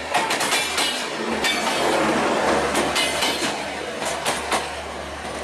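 LHB passenger coaches of an express train rolling past, with a steady rumble and rapid, irregular clicks and clatter from the wheels passing over rail joints.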